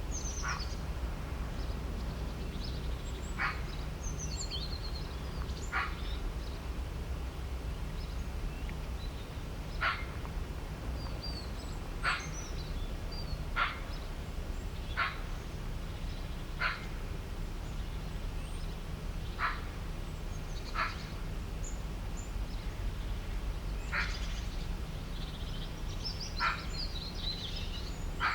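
Nature ambience: a short, sharp animal call repeats every one to three seconds, with small birds chirping faintly high above it and a steady low rumble underneath.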